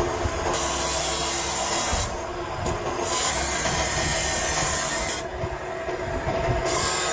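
Workshop machinery running steadily with a hum, while a harsh rasping, metal-cutting noise starts and stops several times, as in grinding or filing a workpiece.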